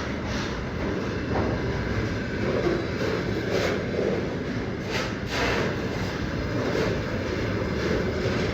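Freight train rolling past: a steady rumble of wheels on rails, with a few sharp clacks as the wheels cross rail joints.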